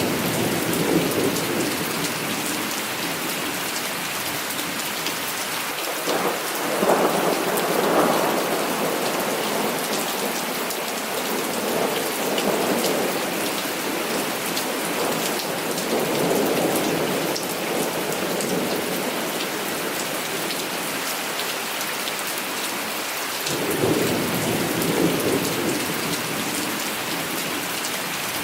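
Heavy rain falling steadily, with rolls of thunder rumbling in and out every few seconds, the loudest about six to nine seconds in.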